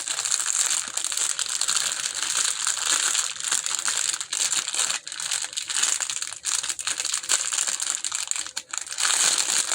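Gift packaging being handled and rummaged through, crinkling and rustling continuously with many small crackles.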